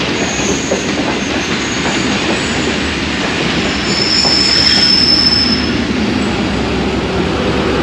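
Pakistan Railways Tezgam passenger coaches rolling along the platform as the train pulls into the station, a steady rumble of wheels on rail. A thin, high metallic squeal rises over it about four seconds in and fades a second or so later.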